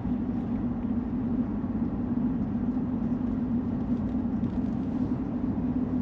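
Steady road and engine noise of a moving vehicle heard from inside the cabin, with an unchanging low hum.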